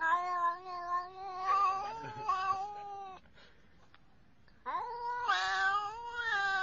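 A pet animal giving two long, wavering yowls. The first lasts about three seconds, and after a short pause a second one starts near the end.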